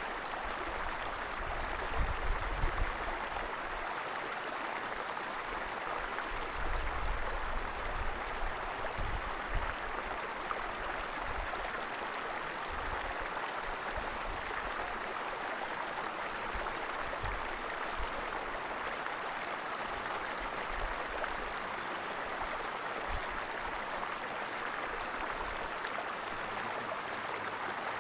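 Waterfall water rushing and splashing in a steady wash, with a few low rumbles about two seconds in and again around seven to ten seconds in.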